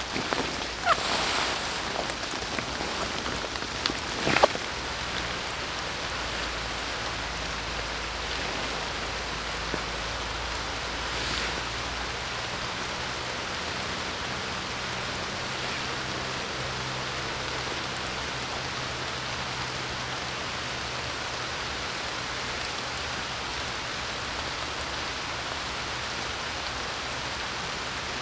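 Steady rain falling. In the first few seconds there are some brief, sharp rustles and knocks, the loudest about four seconds in.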